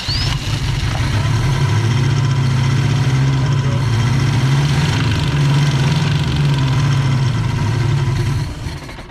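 Subaru BRAT's flat-four boxer engine, long out of commission, catches and runs for about eight seconds, then dies away near the end.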